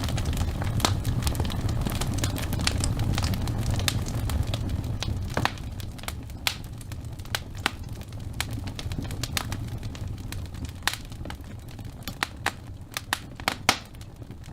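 Wood fire crackling in a fireplace: irregular sharp pops and snaps over a low rumble of flame, which eases off about five seconds in.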